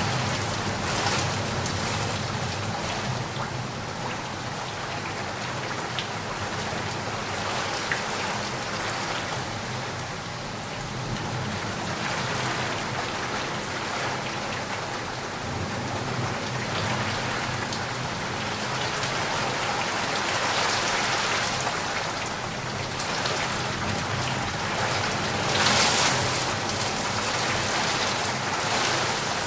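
Steady rain falling and pattering on surfaces, swelling louder for a moment near the end.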